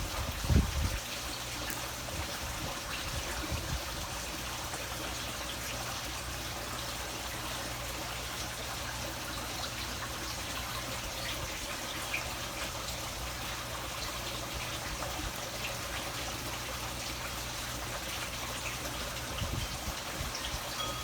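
Steady trickle of running water, with a few low knocks in the first second.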